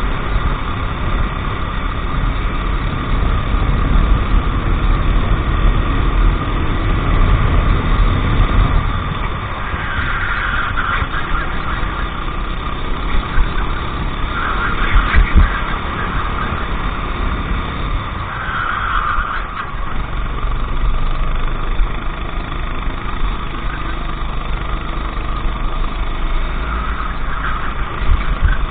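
Racing kart engines running steadily during a race, with a few brief louder swells.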